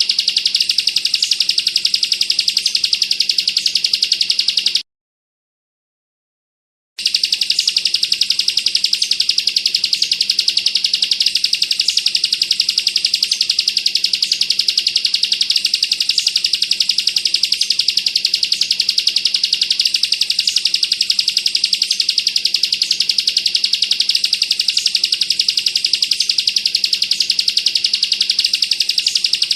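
Bar-winged prinia (ciblek) singing its rapid machine-gun trill (ngebren), a dense unbroken run of high ticks, which drops out completely for about two seconds about five seconds in and then resumes.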